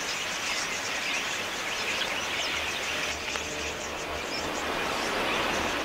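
A large flock of wild budgerigars chirping and chattering together, a dense, steady mass of many short high calls.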